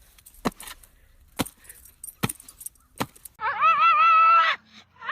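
Four sharp taps or knocks, roughly one a second, then a loud wavering honk about three and a half seconds in, like a goose honking.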